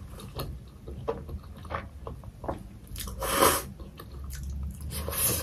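Close-miked chewing and wet mouth sounds of a person eating a spoonful of momo, a steamed dumpling, with tomato achar: a run of small clicks and smacks, with one louder wet mouth sound about three seconds in.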